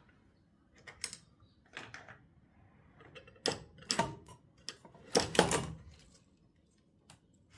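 Hand tools being rummaged through and moved about on a workbench: a string of separate clicks, clacks and knocks, the loudest cluster about halfway through.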